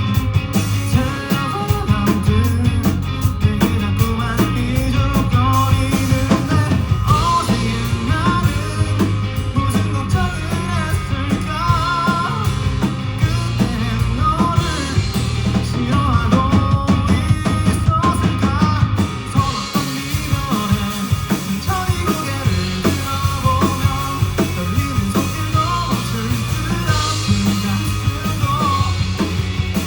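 Live rock band playing a song, with a singer's voice over the instruments.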